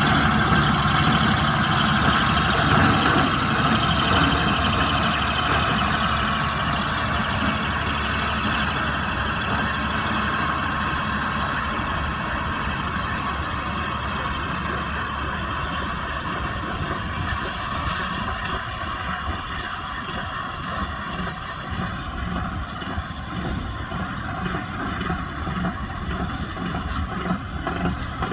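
Kubota M125X tractor's diesel engine running steadily while working a baler, slowly growing fainter.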